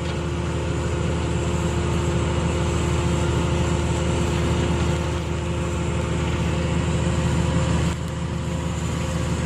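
Excavator's diesel engine running steadily, with a constant low drone and a steady hum; the level dips slightly near the end.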